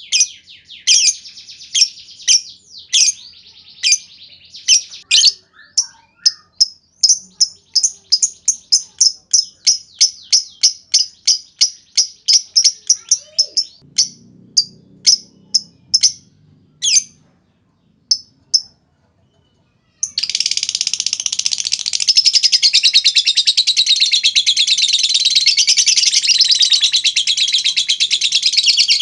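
Lovebird giving rapid, sharp, high chirps at about three a second, the clicking 'ngetik' call, which break off about two-thirds of the way through. After a short pause, a lovebird launches into a long, unbroken high-pitched chattering trill, the 'ngekek panjang' call, louder than the chirps.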